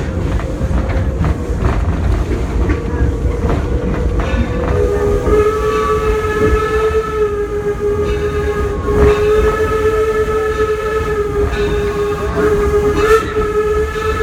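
Long, steady blast of the Torch Lake steam locomotive's whistle, starting about a third of the way in and held, over the rumble and clickety-clack of the train cars rolling along the track.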